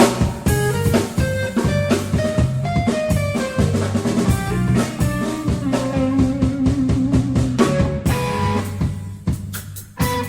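Live instrumental band jam: a drum kit keeps a steady beat with rimshots and bass drum while a guitar plays a melodic line of held notes over a low part. The band thins out briefly near the end, then comes back in.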